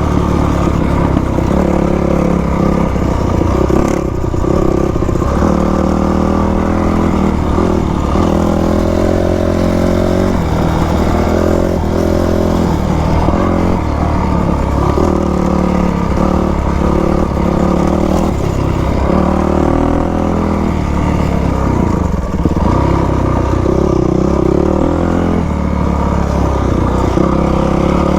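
2000 Yamaha YZ250 two-stroke single-cylinder dirt bike engine running while ridden, its pitch rising and falling over and over as the throttle is opened and eased off.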